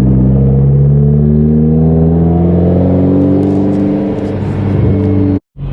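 Turbocharged Hyundai Genesis engine pulling under steady acceleration, its pitch rising slowly over about five seconds, then cutting off abruptly.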